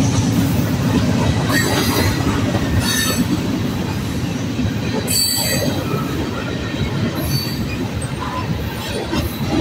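Freight train of covered hopper cars rolling past: a steady low rumble of steel wheels on rail, broken by brief high-pitched wheel squeals every couple of seconds, the loudest about halfway through.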